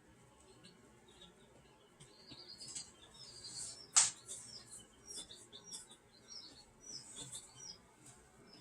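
Small birds chirping: many short, high, falling notes repeated in quick series, with one sharp click about four seconds in.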